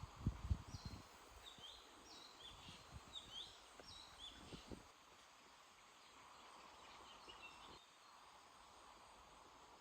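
A small bird calling repeatedly in short, sharp falling chirps over quiet outdoor background, with a few dull thumps in the first second.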